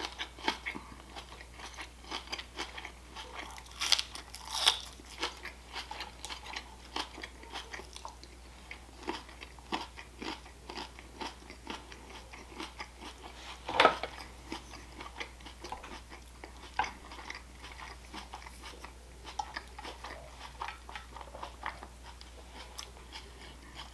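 Close-up crunching and chewing of raw green onion and salad, a run of wet, crisp bites and chews with a few sharper crunches, the loudest about halfway through. A faint steady low hum lies underneath.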